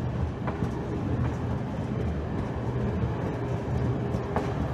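Steady low rumble of a train at a railway station, with a few light clicks over it.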